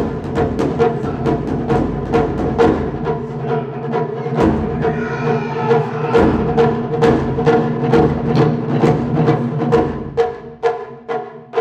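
Japanese taiko drum ensemble playing, a steady run of sharp strikes about three or four a second, with deep big-drum beats coming in and dropping out. Near the end the strikes stand apart as separate, sharper hits.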